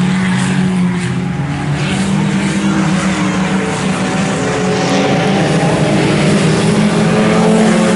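A field of IMCA Sport Compact race cars, four-cylinder engines running hard, in a steady loud drone whose pitch climbs slightly near the end.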